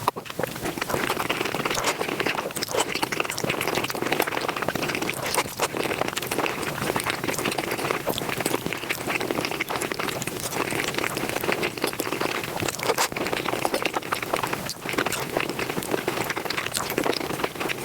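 Close-miked ASMR eating sounds sped up five times: a dense, continuous run of rapid chewing clicks and mouth noises.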